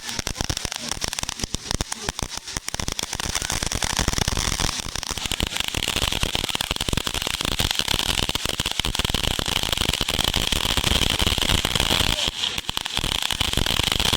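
Fireworks crackling: a dense, continuous run of rapid pops and crackles with a hiss behind them. It grows louder about four seconds in and dips briefly near the end.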